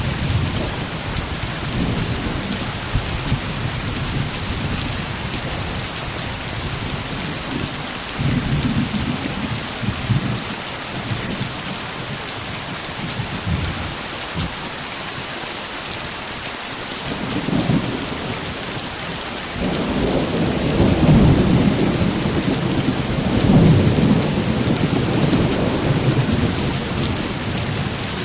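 Heavy rain falling steadily, with low rolls of thunder: short rumbles about a third and two-thirds of the way in, and a longer, louder rumble through the last third.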